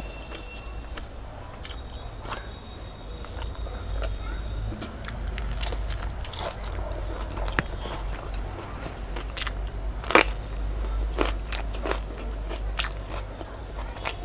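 A person chewing and crunching food with the mouth close to the microphone: scattered sharp clicks and crackles, the loudest snap about ten seconds in, over a steady low hum.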